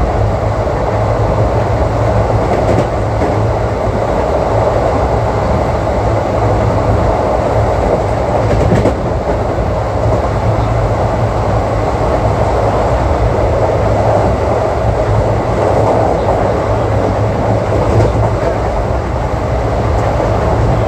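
Indian Railways ICF passenger coach running at speed: a steady rumble of wheels on track with a rhythmic clatter over rail joints, and a sharper clank about nine seconds in and again near the end.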